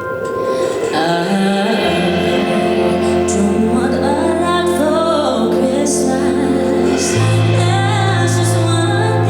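Voices singing a slow holiday song over sustained low accompaniment, coming in about a second in after piano notes; the bass note changes about seven seconds in.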